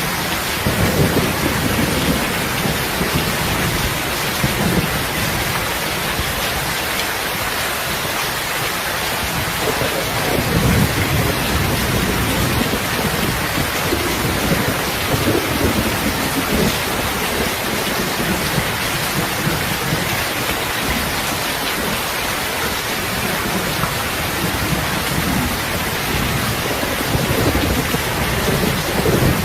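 Steady rain falling, with a low rumble that swells and fades several times, most strongly about ten seconds in.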